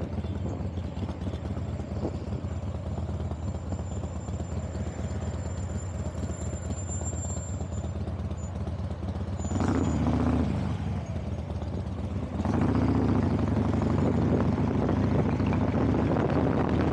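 Vehicle engine running steadily on the move, with road noise; it swells briefly about ten seconds in and runs louder from about twelve and a half seconds.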